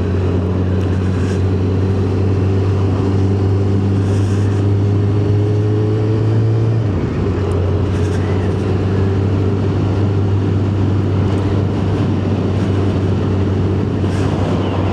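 Yamaha FZ1 motorcycle's inline-four engine running under way, with wind rush. Its note climbs slowly, drops suddenly about halfway through, then holds steady.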